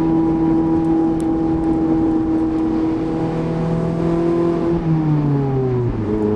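Mazda MX-5's 1.5-litre four-cylinder engine running at steady revs under way, with road noise under it; about five seconds in the engine note slides down as the revs fall, then holds at a lower pitch.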